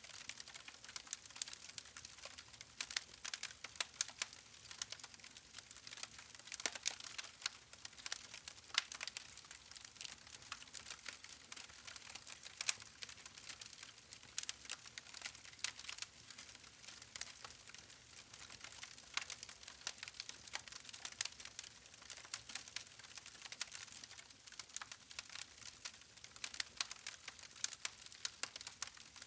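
Wood campfire crackling: quick, irregular pops and snaps from the burning logs over a faint hiss of flame, with sharper louder pops every second or so.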